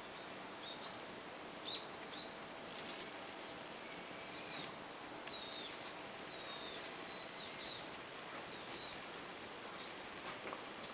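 Small birds chirping: a string of thin, high, arched whistles, one every half-second to a second, with a brief louder burst of sharp high chirps about three seconds in.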